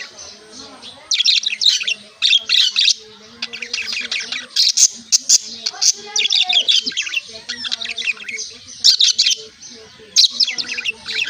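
Small birds chirping in repeated bursts of rapid, high-pitched notes, with short pauses between the bursts.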